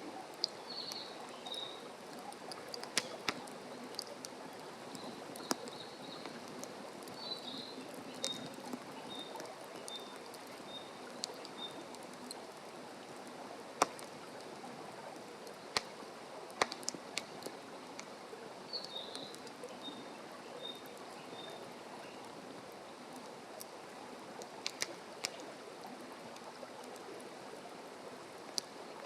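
Wood campfire crackling, a steady hiss broken by sharp, irregular pops. A small bird sings a quick phrase of short high notes a few times over it.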